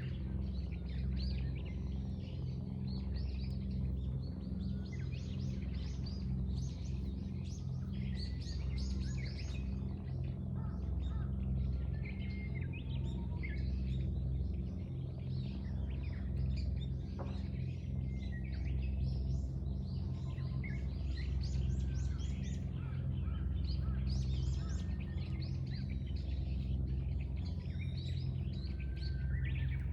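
Many small birds chirping and singing in quick overlapping calls and trills throughout, over a steady low rumble.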